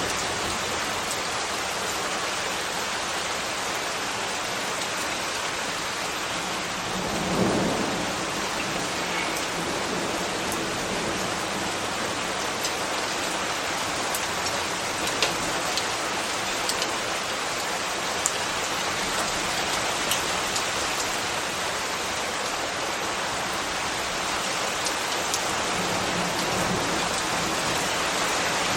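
Steady rain falling on surfaces, an even hiss with scattered sharper drop ticks. A brief low swell rises and fades about seven seconds in.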